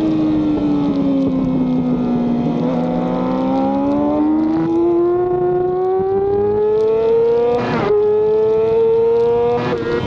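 Onboard sound of a racing motorcycle engine with wind noise. The engine comes down in pitch, then pulls steadily higher under acceleration, with two quick breaks in the note as it shifts up near the end.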